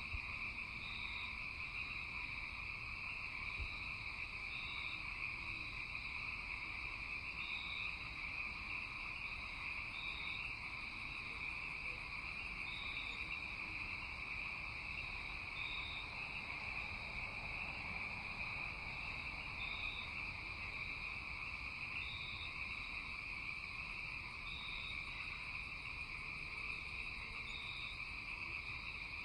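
Nighttime chorus of crickets and frogs: a steady shrill trill, with short high chirps repeating every two to three seconds.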